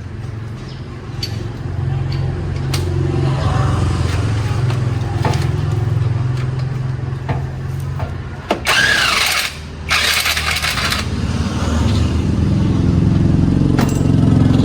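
An engine running steadily, with two loud hissing bursts of about a second each a little past the middle.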